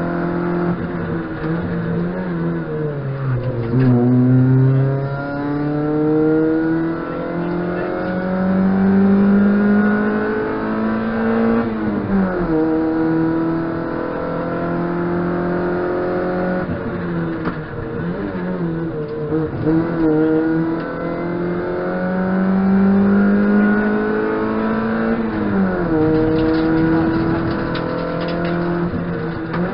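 Rally car's engine heard from inside the cabin, driven hard. The revs climb in long pulls through the gears, drop sharply at the changes and fall away several times as the driver lifts for corners.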